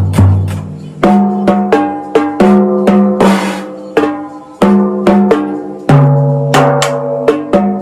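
Band music: a drum kit playing snare and bass drum hits over held pitched notes that change every second or so.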